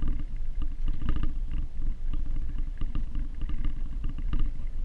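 Vehicle engine running with a low, uneven rumble while clearing snow with a pull plow.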